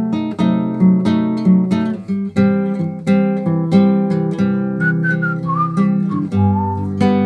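Acoustic guitar strummed in a steady rhythm of about two strokes a second, changing chord about two seconds in and again near the end. In the second half a few whistled notes wander over the chords.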